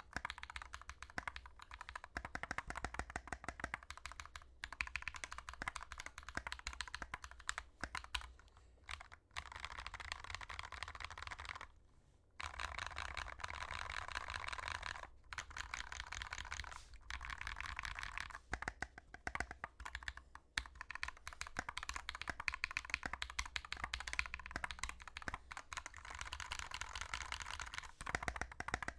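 Typing on a GK61x mechanical keyboard with lubed Glorious Panda tactile switches: fast, continuous runs of keystroke clacks, broken by a few short pauses.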